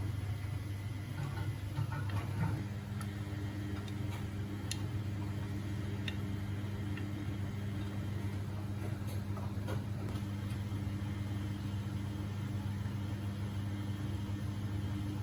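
Beko washing machine in its anti-crease phase at the end of the wash cycle: the drum motor hums steadily as the drum turns slowly, with a few light clicks. The hum changes tone about two and a half seconds in.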